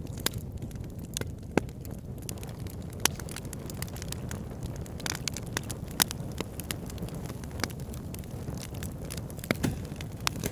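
Wood fire burning in a fireplace: a steady low rumble of flames with irregular crackles and a few sharp pops.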